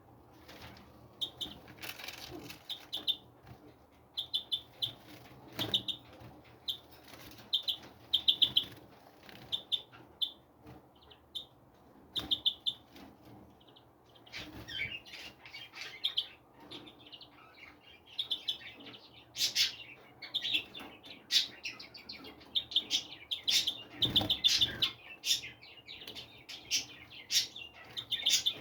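Small songbirds chirping in an aviary: short repeated chirps, spaced out at first and becoming a busy overlapping chatter about halfway through, with a few soft knocks and rustles among them.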